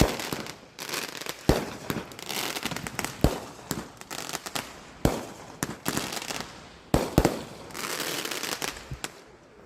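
Fireworks going off: about seven sharp bangs at irregular intervals, with crackling in between.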